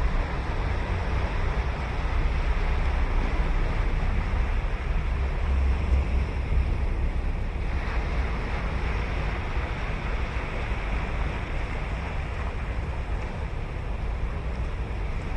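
Ocean waves breaking and washing on a sandy beach, a continuous surf wash, with wind rumbling on the microphone.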